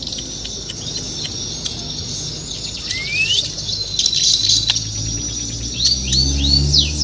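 White-rumped shama (Bornean murai batu) singing: scattered sharp clicks and short notes, a rising whistle about three seconds in, a held high note, then a quick run of falling notes near the end.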